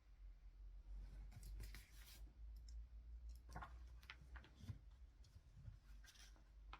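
Faint, scattered clicks and ticks, a quick cluster about one and a half seconds in and single ones later, over a steady low hum.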